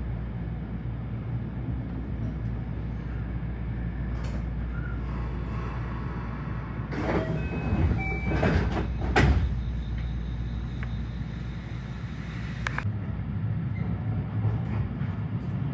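JR West 223 series 5000 electric train, a steady low rumble with a cluster of short rushing noises about seven to nine seconds in and a sharp click near the end.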